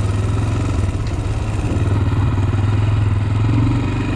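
2014 Honda TRX400X quad's single-cylinder engine running at low, steady revs, a steady low drone.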